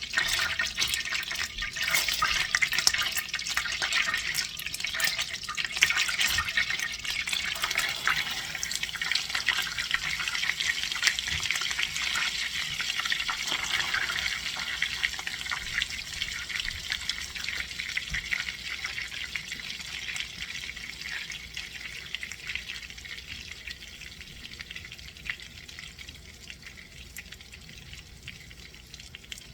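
Food frying in a pan, a dense sizzle with fine crackling, loudest at first and dying down steadily over the second half.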